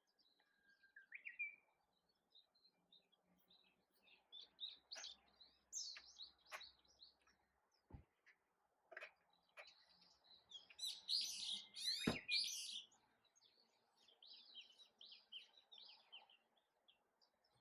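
Small birds chirping and twittering in short, scattered calls, busiest a little past the middle. Two sharp clicks are heard partway through.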